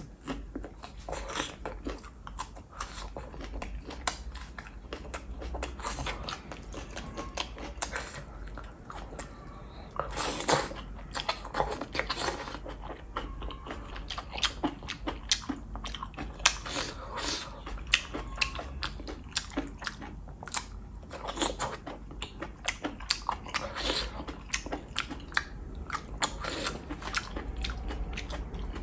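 Close-miked wet chewing and crunching bites of a person eating a saucy mushroom dish with chilies by hand, with many quick irregular mouth clicks and smacks.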